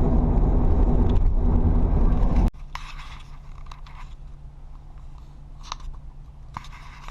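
Road and engine noise inside a moving Jeep Cherokee XJ, a loud steady low rumble. About two and a half seconds in it cuts off suddenly, giving way to a quieter steady low hum with a few light clicks and rustles.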